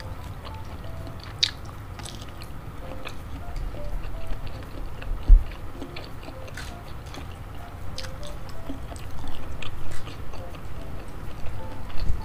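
Close-miked chewing of a sausage piece in spicy chili sauce: wet mouth clicks and smacks, with one low bump about five seconds in and the chewing growing louder near the end.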